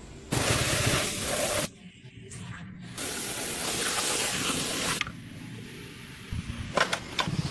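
Two bursts of hissing spray from a workshop air or spray tool, the first about a second and a half long, the second about two seconds, followed by a few sharp clicks near the end.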